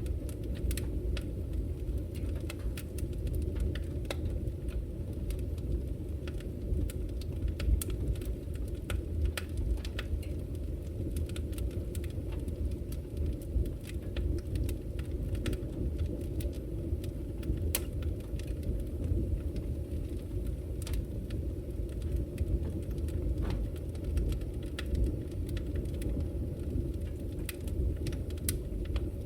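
Wood fire burning in a fireplace: a steady low rush of flame, with frequent small crackles and pops from the burning wood at irregular intervals.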